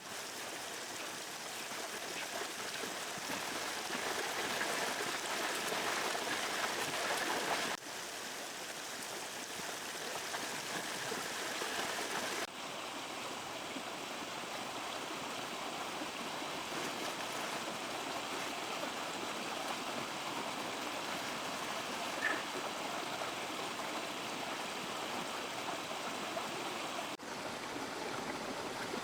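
River water flowing steadily over stones, a continuous rushing that shifts abruptly in level and character three times.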